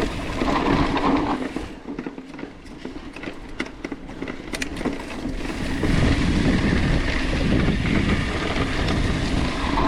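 Mountain bike rolling down a steep dirt trail: tyres rumbling over the ground, with rattling from the bike and the clicking of the coasting rear hub. The rumble grows louder about six seconds in as the bike picks up speed.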